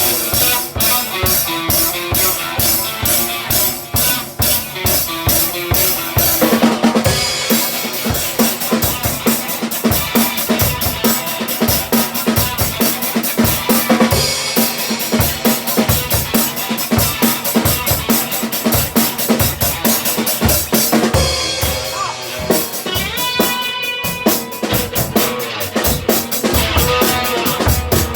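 Punk rock music in an instrumental passage without vocals: a drum kit plays a fast, steady beat of bass drum and snare hits over the band.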